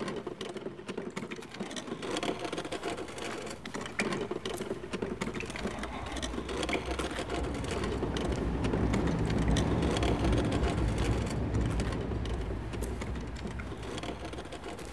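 Heavy old wooden chest (nagamochi) dragged by rope over pavement, scraping and rattling continuously. It grows louder and rumbles most heavily about two-thirds of the way through, then eases.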